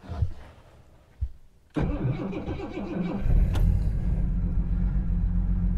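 Jaguar XJ6's XK straight-six being started cold after sitting about a week and a half, heard from inside the car. After two short sounds, the starter cranks for about a second and a half before the engine catches and settles into steady running. It is an engine with a cracked cylinder.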